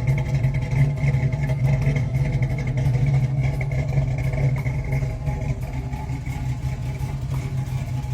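A 1965 Ford Mustang's rebuilt 289 V8 engine idling steadily.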